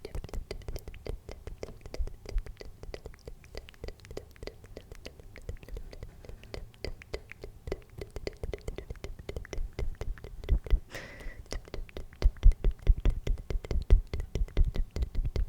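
Close-miked ASMR tapping and clicking: a dense run of quick clicks over soft thumps, getting louder about twelve seconds in.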